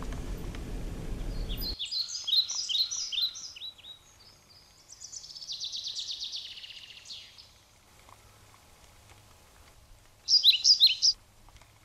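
A low rumbling noise that cuts off abruptly about two seconds in, then songbirds calling: a quick run of descending chirps, a rapid trill lasting about three seconds, and a short loud burst of chirps near the end.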